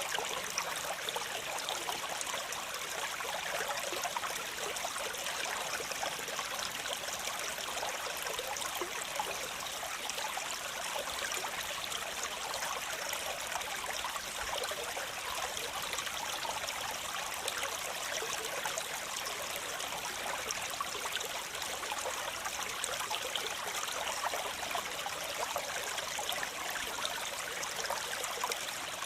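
Waterfall: water falling and splashing in a steady, unbroken rush, bright and hissy with little low rumble.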